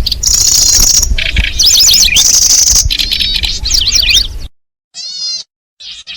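Recorded lure song of the kecici belalang: high, steady buzzing trills alternating with quick, sliding chirp phrases, over a low rumble for the first four seconds or so. After a brief gap, short chirp phrases come in near the end.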